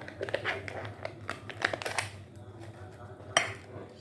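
Eating utensils clicking and scraping against a bowl as noodles are mixed: a run of short, irregular knocks, with one sharper knock about three and a half seconds in.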